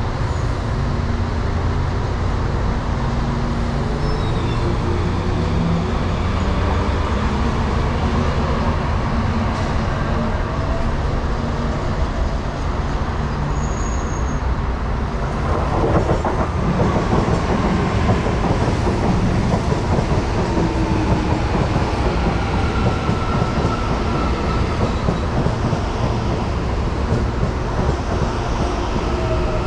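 Electric commuter train on CPTM Line 9 running on the track: a steady heavy rumble of wheels on rail with faint whines gliding in pitch. It gets louder a little past halfway.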